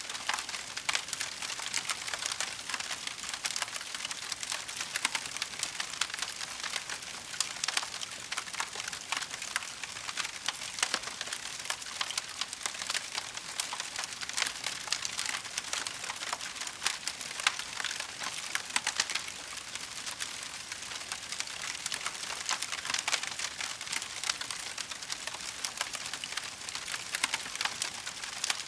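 Wood fire burning in a fireplace: a steady hiss with many small, sharp crackles and pops scattered throughout.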